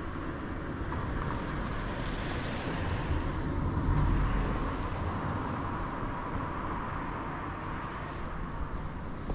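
Seaside ambience: a steady rush of wind and surf with low wind rumble on the microphone, swelling about four seconds in and easing off.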